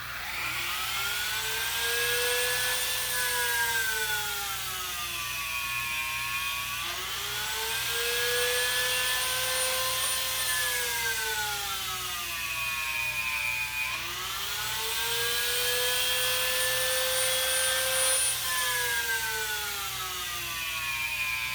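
Electric drill boring holes in wood. The motor runs continuously, its pitch sinking and then rising again about every seven seconds, three times over.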